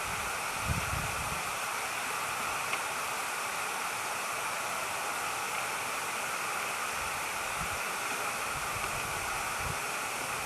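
Steady outdoor hiss with a few low gusts of wind buffeting the microphone.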